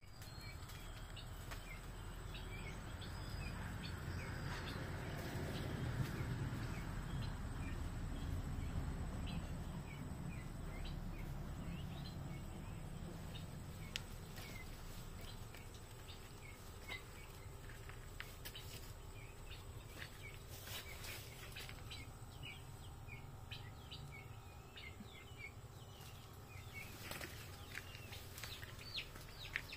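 Many short, high bird chirps scattered throughout over wind noise on the microphone, with the wind heaviest in the first ten seconds. A few sharp rustles or clicks come in the second half.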